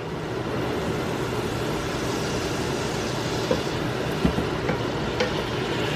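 Food frying in hot oil in a pan, a steady sizzle, with a few faint light taps in the second half.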